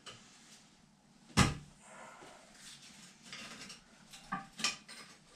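A single sharp, loud clunk about a second and a half in, then a few lighter knocks and clicks near the end, as parts of an old toilet are worked loose and handled.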